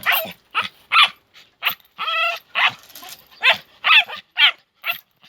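Three-month-old puppy yipping and barking in quick, high-pitched yaps, about eleven in all, with one longer drawn-out yelp about two seconds in.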